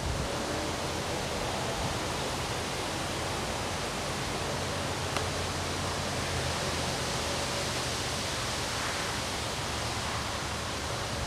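Windstorm wind blowing steadily, an even rushing hiss with no change in strength.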